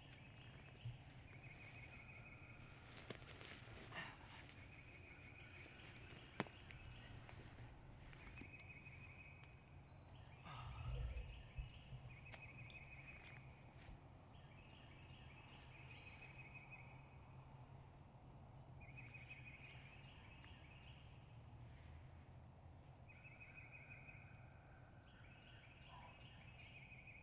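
A small bird singing a repeated high, fast trill, each phrase about a second long and coming every two to three seconds, over faint outdoor background. A few soft knocks and a brief low rumble about ten seconds in.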